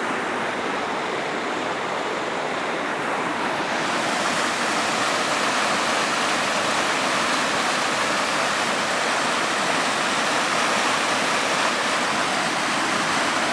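Small river waterfall with water pouring and rushing steadily, the river high after rain. About four seconds in the sound gets brighter and a little louder.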